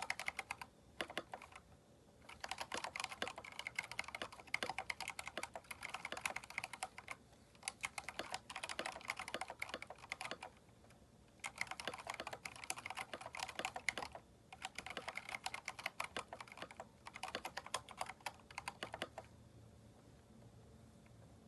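Typing on a Keychron K4 mechanical keyboard fitted with aftermarket keycaps: quick runs of key clacks broken by short pauses. The typing stops near the end.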